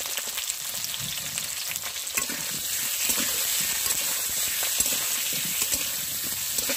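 Potato pieces frying in a pan of hot oil: a steady sizzle with scattered crackles.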